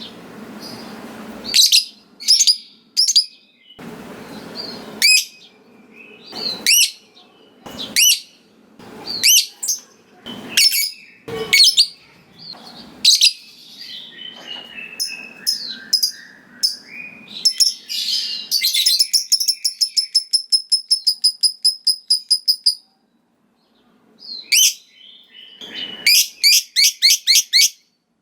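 Lovebird (Agapornis) calling with sharp high shrieks and chirps. About two-thirds of the way in these run into a long fast rattling series of about eight notes a second, the extended 'ngekek' chatter, which cuts off abruptly. Another shorter rattling series comes near the end.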